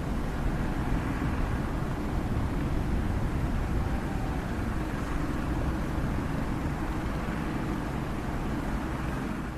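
Komatsu excavator's diesel engine running steadily under work.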